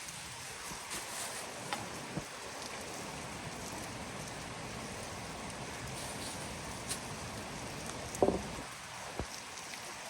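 Steady rain pattering, with a few scattered clicks and a short louder knock about eight seconds in.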